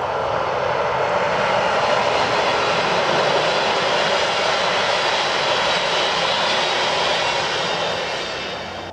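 Fyra passenger train passing at speed on a high-speed line: a loud, steady rush of wheels on rail and air that fades away near the end as the last coach goes by.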